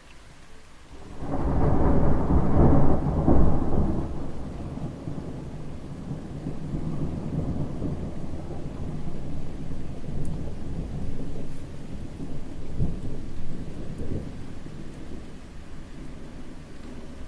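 Thunderstorm: a heavy roll of thunder breaks about a second in and rumbles for a few seconds, then rain falls steadily under lighter rolling rumbles, with two short sharper thunder strikes near the end.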